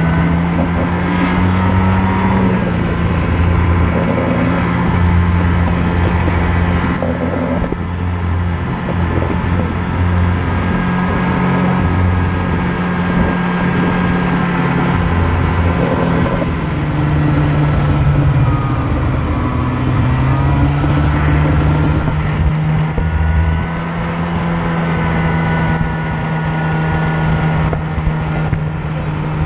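A vehicle engine running continuously, its pitch falling and rising several times as the revs change.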